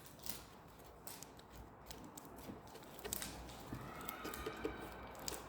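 Faint rustles and light taps of a folded paper airplane being handled and smoothed, a few short soft clicks scattered through.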